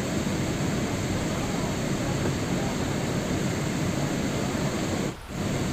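Steady rain noise, a dense even hiss that drops out briefly about five seconds in, as at a join in a looped recording.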